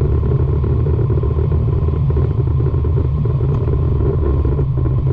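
Nissan 350Z's 3.5-litre V6 running at a steady pitch, mixed with road and tyre noise, loud and even throughout.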